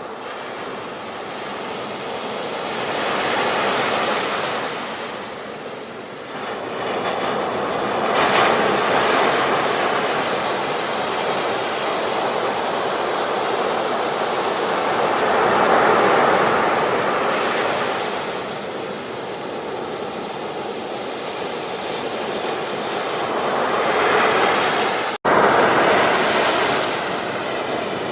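Sea waves breaking and washing up a beach, a steady rush that swells every few seconds as each wave comes in. Near the end the sound drops out for an instant, then resumes.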